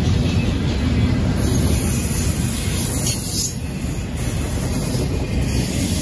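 Double-stack intermodal freight cars rolling past, a steady noise of steel wheels running over the rails.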